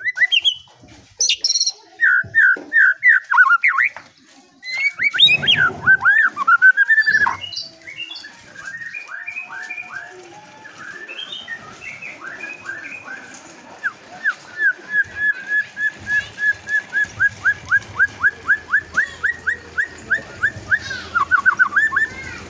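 Songbird song for training caged birds: varied loud whistled phrases, then a long rapid series of short downward-slurred notes, about four a second, building through the second half.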